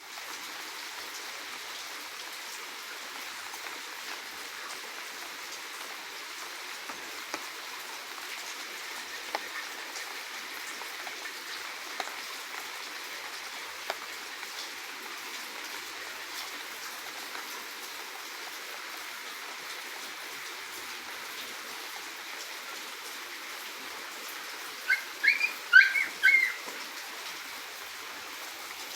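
A steady hiss like light rain or running water with a few faint ticks; near the end, a short burst of several loud, quick chirps from a saffron finch.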